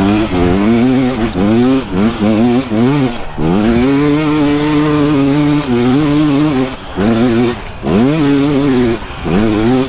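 A KTM 300 XCW's two-stroke engine revving hard under load on a steep hill climb. The pitch rises and falls about twice a second as the throttle is worked, holds steady for about three seconds in the middle, then goes back to rising and falling.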